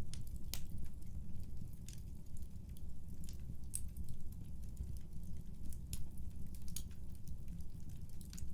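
Wood fire crackling in a fireplace: irregular sharp snaps and pops, a few a second, over a steady low rumble of burning.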